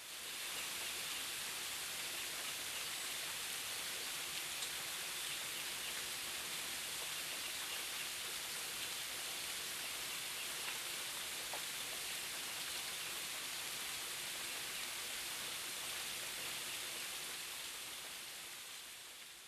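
Steady rain falling, an even hiss with a few faint drip ticks, fading in at the start and out near the end.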